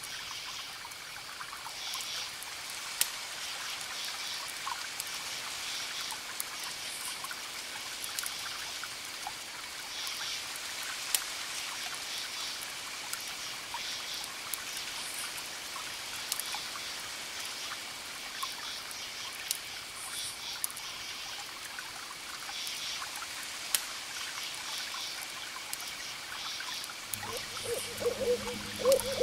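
Wood fire crackling with scattered sharp pops over a layered forest ambience: steady trickling water and a high chirping calling in short bursts every couple of seconds. Near the end a low bird call, a coo, comes in.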